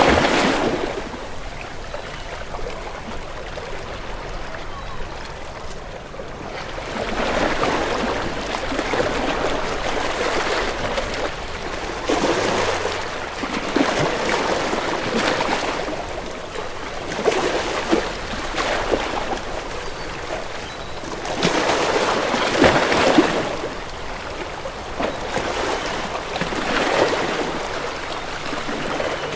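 Sea waves washing and sloshing in repeated swells, rising and falling every few seconds.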